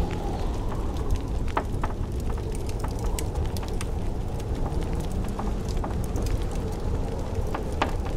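Wood fire crackling in a fireplace, with irregular sharp pops, over the steady low rumble of blizzard wind that howls faintly now and then.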